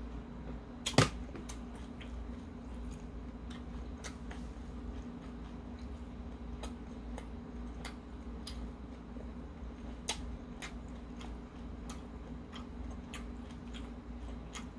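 A person chewing, with soft, irregular mouth clicks and smacks over a steady low hum. One sharp knock about a second in is the loudest sound.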